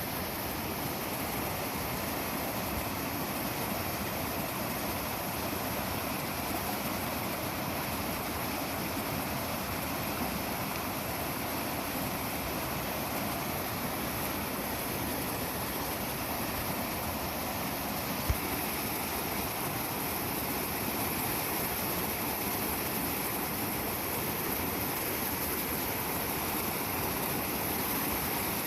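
Steady rushing of flowing water, with a single sharp click about two-thirds of the way through.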